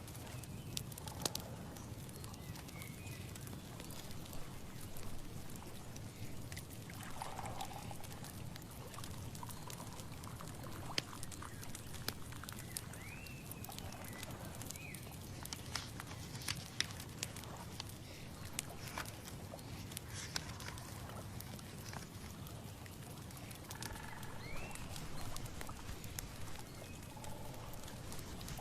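Outdoor nature ambience: a few short animal calls, some rising and falling like bird chirps, over a steady low rumble, with scattered faint clicks and ticks throughout.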